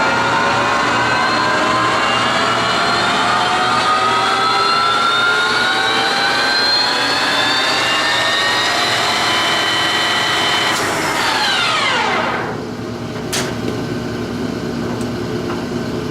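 Clausing Colchester 15x50 lathe's geared headstock running at its top spindle speed of 2000 rpm, a gear whine creeping slowly up in pitch. About eleven seconds in the spindle is stopped and the whine falls quickly away, leaving a lower steady hum and a single click.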